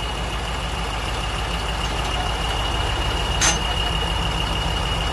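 An engine idling steadily, with a thin steady high tone over it and one sharp click about three and a half seconds in.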